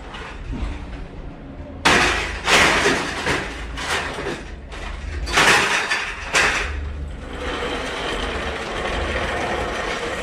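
Metal scrap clattering and banging as fluorescent light fixtures are handled onto a workbench, with half a dozen sharp knocks over the first six or seven seconds, then a steadier rough noise.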